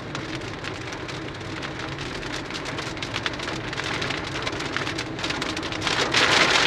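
Rain falling, a steady hiss of many drops striking close by, heavier and louder about six seconds in.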